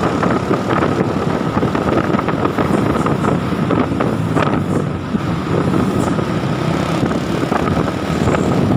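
Truck running on the road: a steady, loud mix of engine and road noise.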